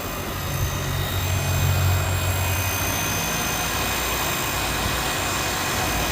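Low steady hum from an 8th-generation Nissan Maxima, strongest for the first few seconds and then easing, with faint steady high-pitched whine tones above it: the unexplained 'weird sound' the owner is showing.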